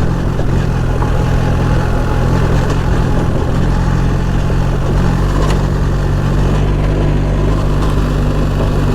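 BMW R 1300 GS's boxer-twin engine pulling steadily at a constant pitch in third gear on a gravel hill climb, under a steady rush of wind and riding noise.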